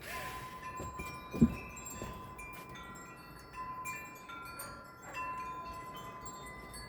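Wind chimes ringing, several notes overlapping and fading. A single sharp knock about a second and a half in.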